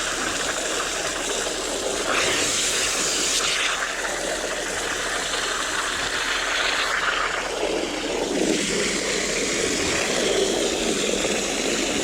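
Water running steadily into a tarp-lined hammock as it fills, a continuous rushing that changes tone a few times.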